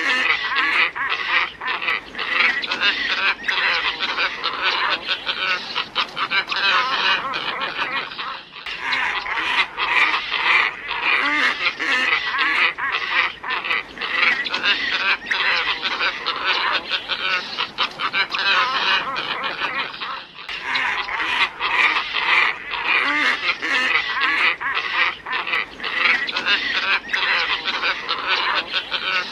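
A flock of glossy ibises calling, a dense chorus of overlapping calls, played as a lure recording. The chorus breaks off briefly twice, about eight and twenty seconds in.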